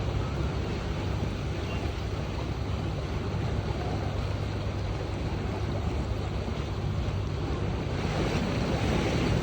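Steady rush of water and wind on the microphone from a boat under way, over a constant low hum.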